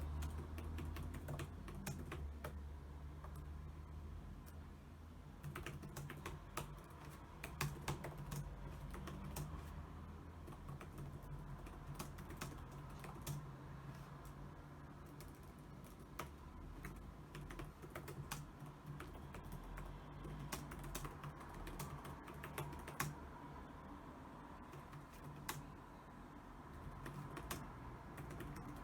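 Computer keyboard typing: fast, irregular key clicks run on continuously, with a low steady hum beneath.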